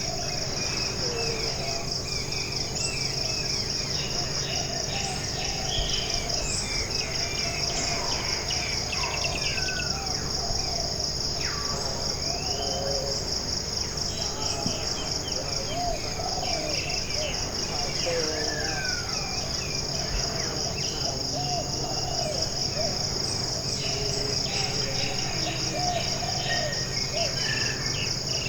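Rainforest ambience: a continuous high-pitched insect trill with a fast, even pulse, over scattered calls, chirps and whistles from several birds.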